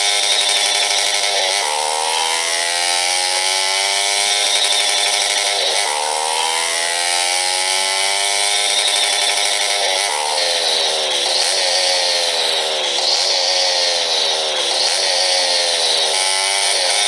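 Motorcycle engine running under way. Its pitch climbs slowly as it accelerates and drops sharply at gear changes, about one and a half, six and ten seconds in; after that the engine note rises and falls with the throttle.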